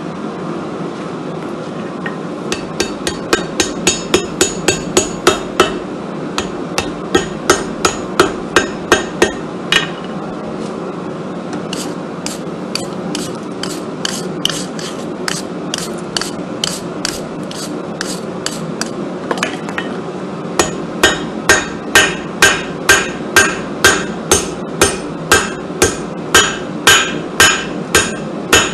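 Hand hammer striking hot damascus steel on an anvil, drawing out a forge-welded billet into a bar: a fast run of blows about three a second, a stretch of scattered blows, then steady blows about two a second near the end. A steady hum from the forge runs underneath.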